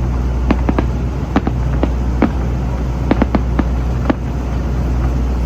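Fireworks bursting in an irregular run of about a dozen sharp bangs, some in quick clusters, over a steady low rumble. The bangs stop about four seconds in.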